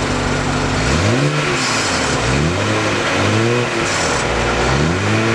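BMW 335i's twin-turbo inline-six, warm, idling through its stock mufflers and then blipped four times, each rev rising and falling back to idle.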